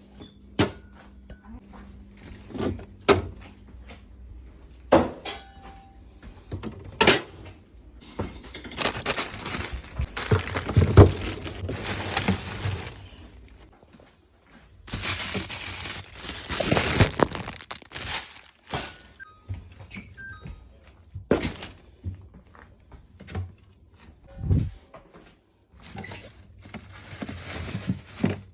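Scattered knocks and clunks of fridge shelves, drawers and containers being handled while a fridge is emptied and cleaned. Two stretches of steady hissing noise come about a third of the way in and again just past the middle.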